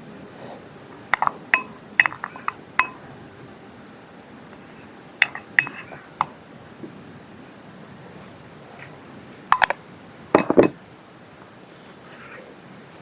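Light clinks of glass or tableware in three small clusters, each clink ringing briefly, with a duller knock about ten and a half seconds in. A steady high hiss runs underneath.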